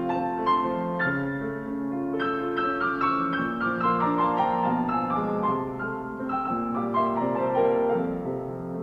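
Piano playing a flowing instrumental interlude between sung verses of a Russian folk song, no voice.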